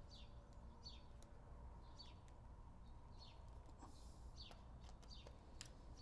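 Near silence with a bird chirping faintly in the background: short falling chirps repeated about once or twice a second, with a couple of faint clicks.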